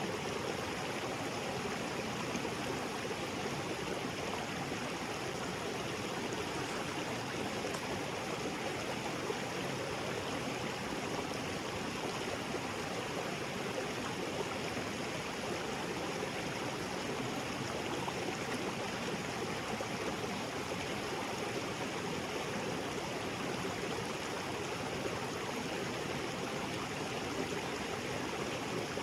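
Small waterfall and creek: water splashing and flowing over rocks in a steady, even rush.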